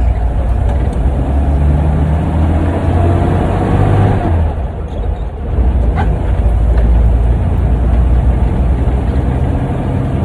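Old Toyota truck's engine and drivetrain under way on the road, running steadily, with a short easing-off about five seconds in before it pulls on again.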